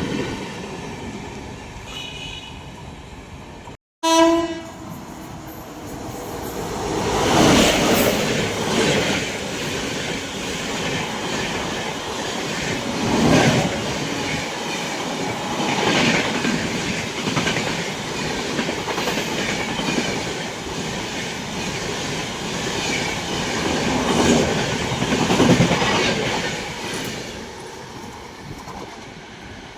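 Express train passing at full speed on Indian Railways track. After a cut about four seconds in, a short horn blast sounds, then the coaches rush past with wheel clatter that swells every two to three seconds, easing off near the end.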